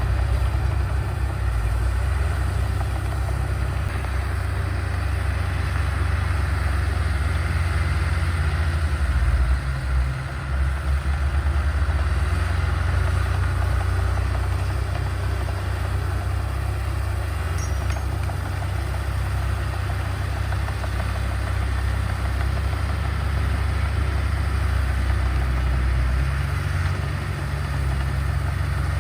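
Diesel engine of earthmoving machinery running steadily, with a brief dip in loudness about ten seconds in.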